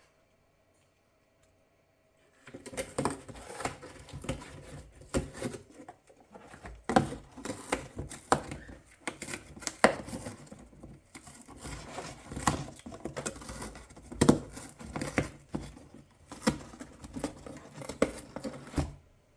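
Macaw tearing and crunching cardboard with its beak: a rapid, irregular run of sharp cracks and rips that starts a couple of seconds in.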